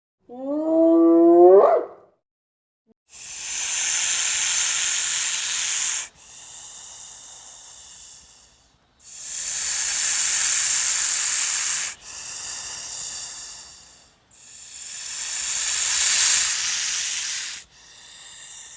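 A rising whooping call, typical of a spotted hyena, sweeps upward for about a second and a half. Then come three long, loud hisses a few seconds apart, each trailing off into a fainter hiss with a thin ringing tone.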